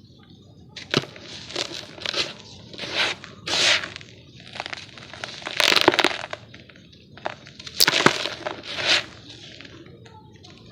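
Chunks of dry, gritty yellow dirt being crushed and crumbled, a run of irregular crunches and crackles. It starts about a second in, is loudest around the middle, and dies down near the end.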